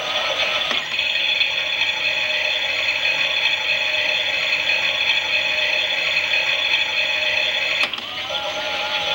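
Klein toy Miele washing machine's small electric drum motor and plastic gears whirring steadily. A wavering whine at the start changes to a steady whirr about a second in, then switches back to the wavering whine near the end.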